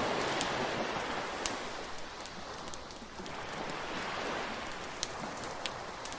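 Beach bonfire crackling, with sharp pops about once a second, over the hiss of waves washing in that swells at the start and again about two thirds of the way through.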